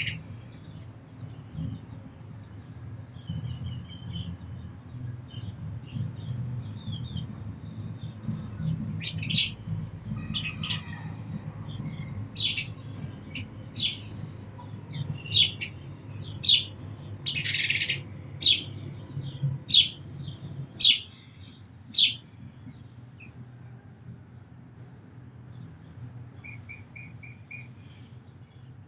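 House sparrow chirping: a run of loud, sharp single chirps about once a second through the middle, with fainter chirps before and after, over a low steady rumble.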